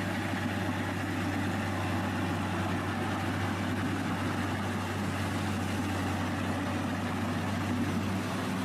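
A machine's engine running steadily with a constant low drone and no change in speed.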